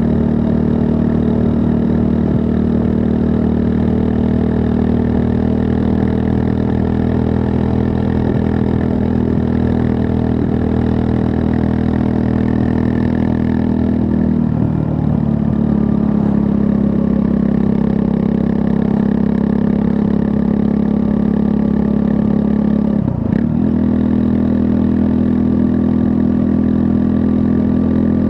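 2024 Triumph Scrambler 400 X's 398 cc liquid-cooled single-cylinder engine running at steady revs while riding. The engine note dips briefly twice, about halfway through and near the end, and recovers each time.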